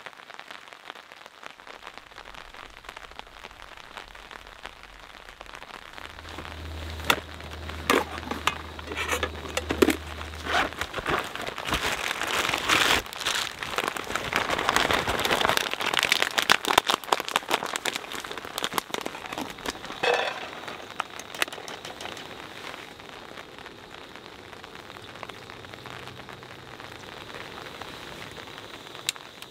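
Light rain pattering and dripping on a tarp. Through the middle stretch there is dense crinkly rustling from a nylon stuff sack being handled close by.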